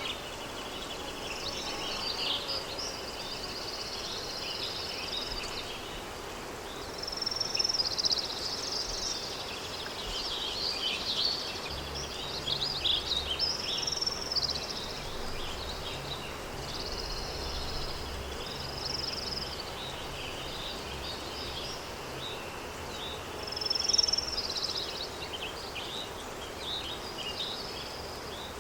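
Countryside daytime ambience recording: several songbirds chirping and trilling over a steady background hiss, with louder phrases of song about eight and twenty-four seconds in.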